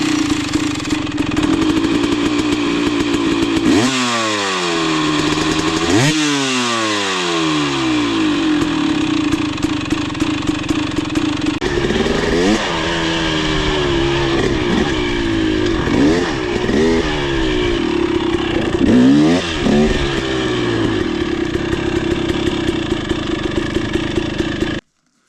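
KTM 300 XC-W's single-cylinder two-stroke engine running on a freshly fitted spark plug after fouling one, idling steadily with two sharp revs about four and six seconds in and a string of quicker throttle blips around the middle to late part. The sound cuts off abruptly just before the end.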